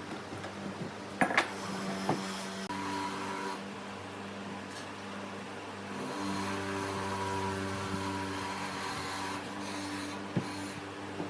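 A small electric motor, such as a power tool's, running with a steady hum. A few sharp knocks and clicks come about a second in, again shortly after, and near the end.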